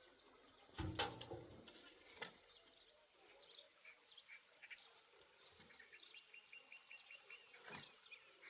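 Faint outdoor birdsong: scattered short high chirps, then a rapid ticking trill near the end. A single dull thump about a second in is the loudest sound, with a few fainter knocks after it.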